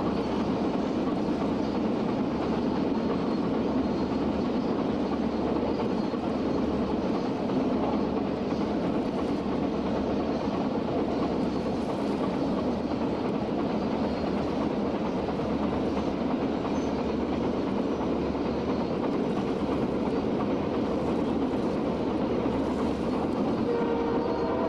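CP Rail freight train led by EMD SD40-2 diesel locomotives running past, a steady rumble of engines and wheels. Near the end the locomotive's multi-tone air horn starts to sound.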